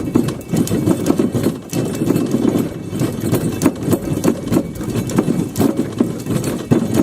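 Rapid, irregular clattering and knocking as barbed wire is pulled off its roll along a fence line.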